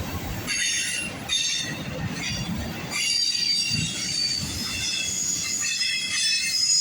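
Freight train cars rolling past with their wheels squealing on the rails: several high-pitched tones come and go over a low rumble.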